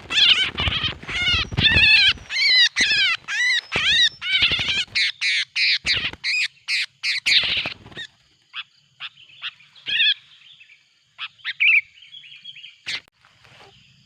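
Sooty-headed bulbuls (kutilang) calling loudly and excitedly: a fast, unbroken run of repeated arched, chattering notes, about three a second, for roughly eight seconds, then scattered single notes and short phrases.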